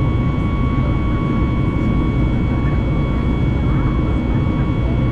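Cabin noise of a Boeing 737 MAX 8-200's CFM LEAP-1B jet engines: a steady low rumble with a steady high whine over it.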